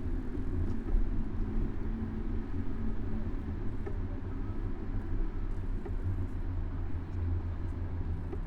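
Low, fluctuating rumble of wind and road noise on the microphone of a camera mounted on a moving bicycle.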